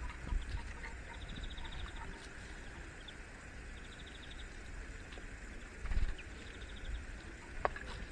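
A small bird singing a short, fast, high trill three times, a few seconds apart, over steady outdoor background noise. A brief low rumble, such as wind on the microphone, comes about six seconds in.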